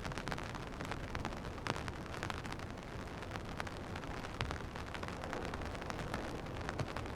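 Steady rain with many close drops ticking sharply, over a continuous low rumble.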